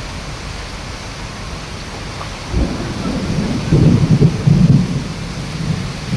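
Heavy rain pouring with a steady hiss. About two and a half seconds in, a low rumble of thunder breaks in and rolls on in uneven surges.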